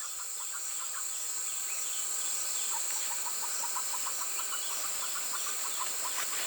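Poultry calling in short, quickly repeated notes, with a steady high insect whine behind.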